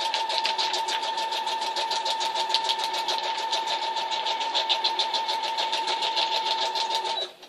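Electric sewing machine stitching through folded dog food bag material: a steady motor hum with rapid, regular needle strokes, about ten a second. It stops suddenly near the end.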